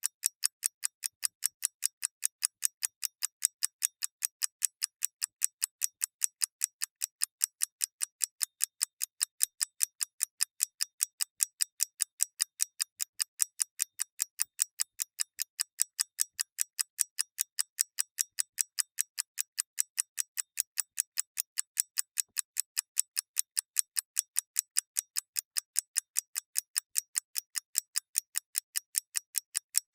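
Clockwork mechanism ticking in a fast, perfectly even rhythm of several sharp, thin ticks a second, with no low thud to them.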